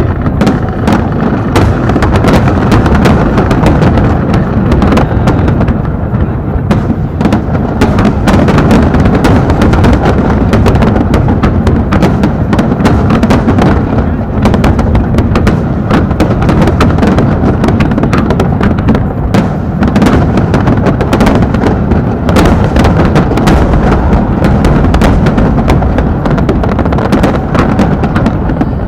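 Aerial fireworks going off in a dense, continuous barrage: overlapping booms and sharp cracks with no pause, very loud throughout.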